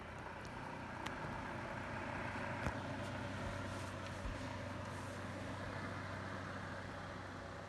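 Holmes Lil-Blizzard oscillating desk fan running on low with oscillation on: a steady motor hum and rush of air, kind of rattly, with a couple of faint ticks.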